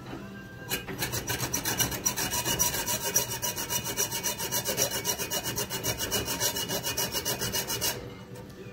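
Rapid, even rasping strokes of a hand file working the knife's handle, about eight strokes a second, starting about a second in and stopping near the end.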